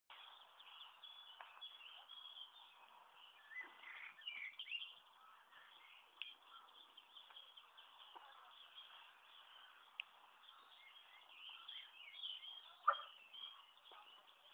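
Faint background hiss with small birds chirping now and then, a few soft clicks, and one brief louder sound near the end.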